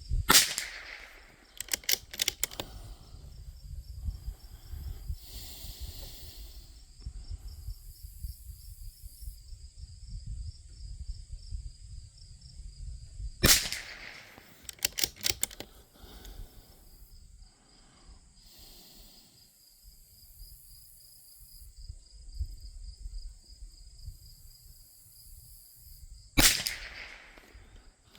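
Bergara B14R .22 LR bolt-action rifle fired three times, about thirteen seconds apart. Each shot is followed a second or two later by a quick series of clicks from the bolt being cycled.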